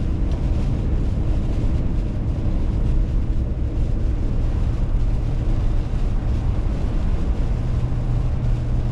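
Steady road and engine noise heard inside a car's cabin, driving at about 45 mph, a constant low rumble with an even hum and no separate events.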